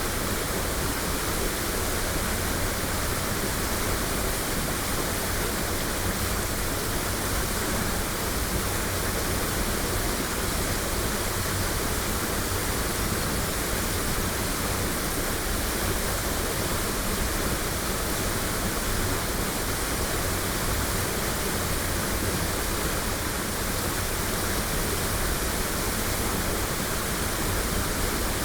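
Waterfall: a steady, even rush of falling water, with no breaks or changes. Recorded binaurally.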